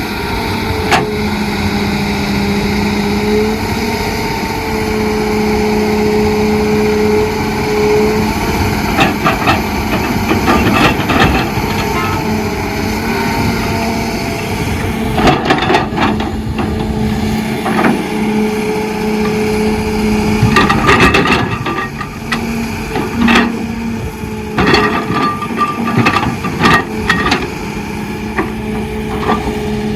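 Heavy excavator's diesel engine running steadily under load, with scattered knocks and clanks from about nine seconds in as it digs and loads soil onto a dump truck.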